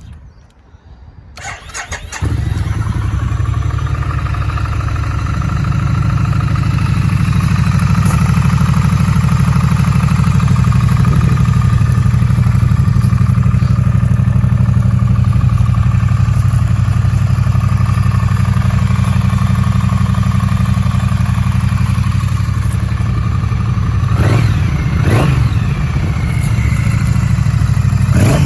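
2017 Triumph Street Twin's 900cc parallel-twin engine cranking on the starter and catching about two seconds in, then idling steadily from stone cold. Near the end it is given a few short throttle blips.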